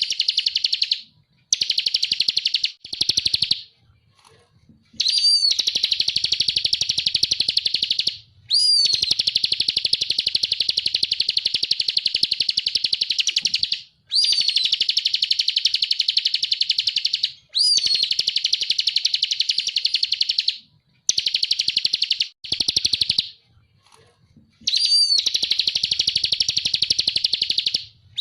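Ciblek (prinia) singing in the rapid 'ngebren' style: long bouts of fast, buzzing trill, several seconds each, every bout opening with a short slurred whistle, separated by brief pauses.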